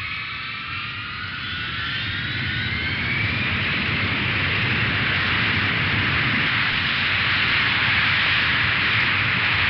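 Jet airliner engines spooling up: several whining tones rise in pitch over the first few seconds, then give way to a rushing jet noise that grows steadily louder.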